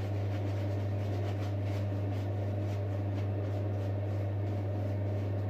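Steady low hum with a faint hiss over it: room tone from a ventilation or electrical source.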